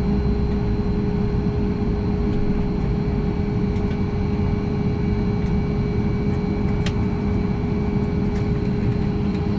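Steady cabin noise inside a Boeing 737 MAX 8 on the ground after landing: an even low rumble with a steady hum, and a faint click about seven seconds in.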